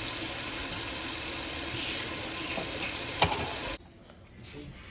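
Kitchen tap running steadily into the sink as raw chicken is rinsed, with a sharp knock about three seconds in. The water cuts off suddenly near the end.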